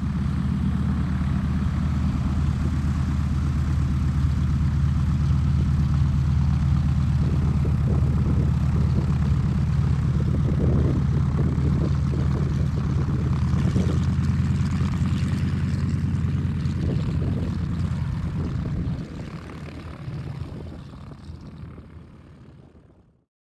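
Rotax 912iS flat-four engine and propeller of a EuroFOX microlight running at takeoff power, a steady drone with airflow noise. It drops about nineteen seconds in and fades out near the end.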